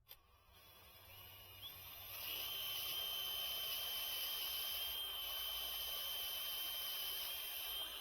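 Power drill running steadily under load with a long bit, boring through the house wall. A high, slightly wavering whine builds up over the first two seconds, then holds.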